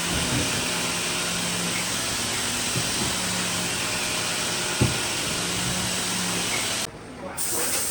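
A steady, loud hiss of rushing air with a faint intermittent hum under it and a single knock near the middle. The hiss cuts off abruptly about a second before the end.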